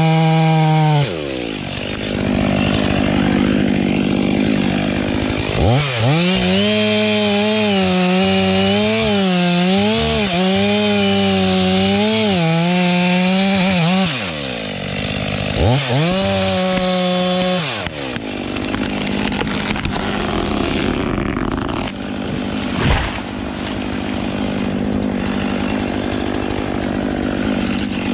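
Two-stroke chainsaw run at high throttle, its engine note wavering as it cuts through wood and dropping back three times as the throttle is eased off. The last third is a rougher, noisier stretch without a steady engine note.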